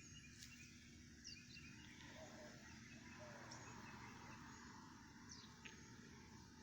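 Near silence: faint outdoor background with a few brief, faint bird chirps spread through it.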